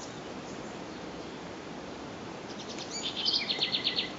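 A songbird singing one phrase about two and a half seconds in: a few high notes, then a quick trill of about eight evenly repeated notes. Under it is a steady background hiss.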